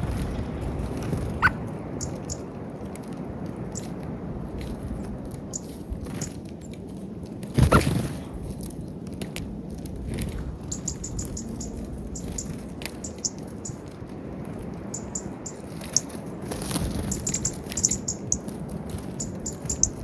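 Small birds at a peanut feeder: scattered light pecking taps and short high chirps, the chirps mostly in the second half, over a steady low outdoor rumble, with one loud knock about eight seconds in.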